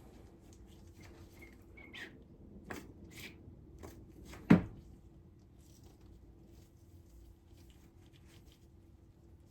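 Scattered light clicks and taps of small objects being handled, with one much louder sharp knock about halfway through.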